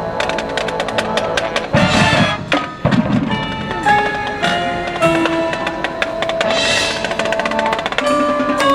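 High school marching band playing: wind instruments holding notes over percussion with rapid clicking strokes, and loud crashes about two seconds in and again near seven seconds.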